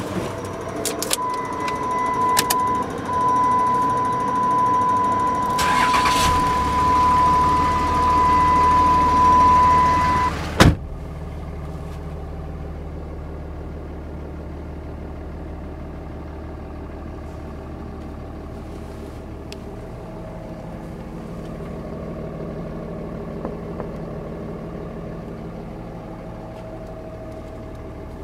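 A 5.9 Cummins inline-six turbo diesel in a 2006 Dodge Ram 3500 starts about six seconds in, while a steady high electronic tone sounds over a few clicks. A sharp knock like a door shutting comes about ten seconds in, after which the diesel idles steadily and more quietly.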